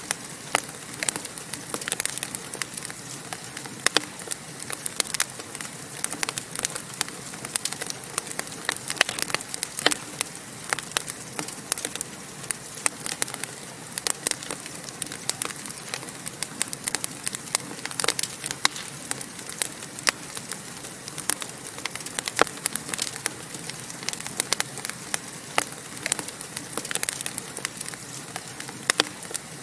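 Wood fire burning in a fireplace, crackling steadily with frequent sharp irregular pops over a soft hiss.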